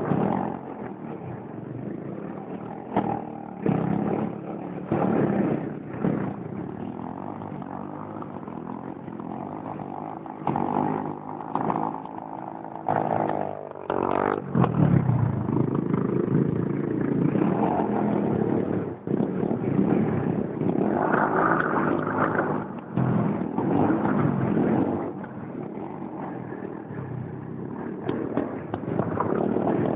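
Small single-cylinder pit bike engine revving hard for a burnout. It blips in short bursts, then climbs about 13 seconds in and is held at high revs for roughly ten seconds before easing back.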